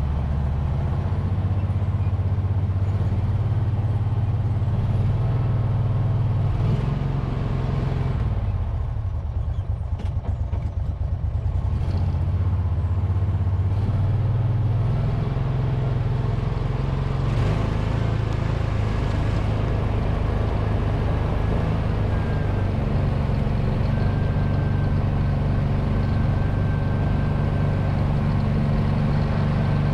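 Tractor engine running steadily. About eight seconds in it drops to a slower, lumpier idle for a few seconds, then picks back up.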